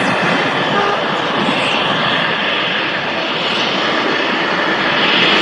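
Light aircraft engine running, a steady drone without a clear pitch that grows a little louder near the end.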